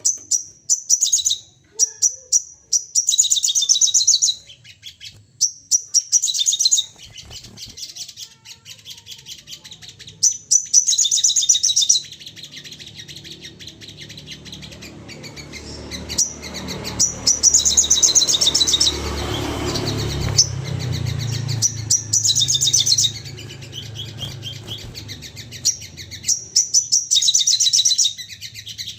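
Sogon birds giving rapid, high chattering trills in repeated bursts of one to two seconds, with a steady low rumble underneath around the middle.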